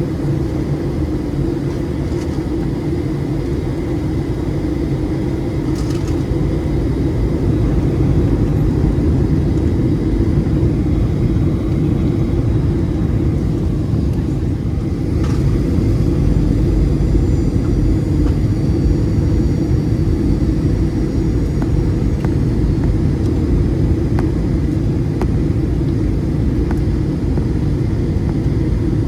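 Steady low rumble of engine and airframe noise inside the passenger cabin of a Boeing 737-700.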